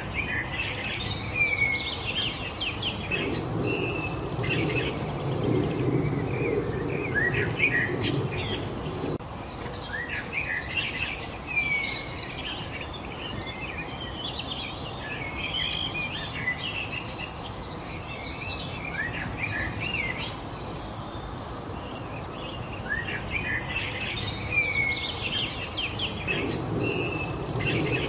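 Several songbirds chirping and singing at once, many short overlapping calls and trills over a steady background hiss. A low rumble comes in about three seconds in, stops about nine seconds in, and returns near the end.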